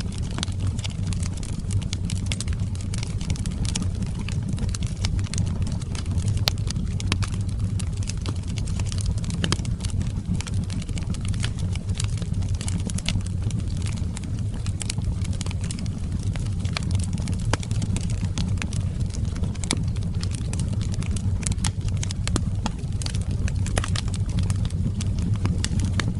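Wood fire burning in an outdoor fireplace: a steady low rumble of flames with frequent, irregular sharp crackles and pops.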